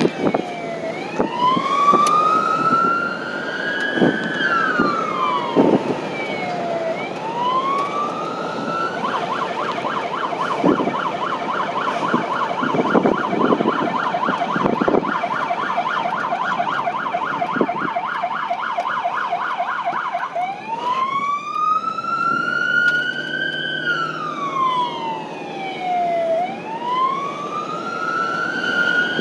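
Emergency vehicle's electronic siren in a slow wail, pitch rising and falling over several seconds, switching to a rapid yelp about nine seconds in and back to the wail about eleven seconds later. Occasional knocks sound under it.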